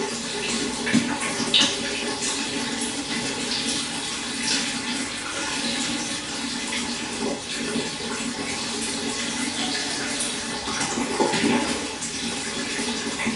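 Running water splashing and trickling steadily into a pond, with many small irregular splashes.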